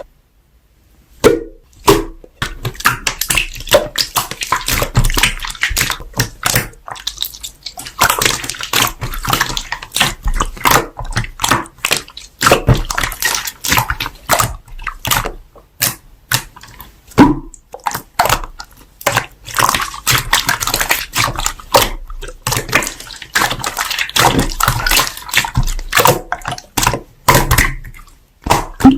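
Slime being squeezed and pressed by hand: a dense run of wet squishing, clicking and popping, starting about a second in.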